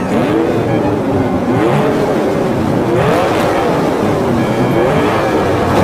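Cartoon truck engine sound effect revving up and easing off again and again over a steady rumble.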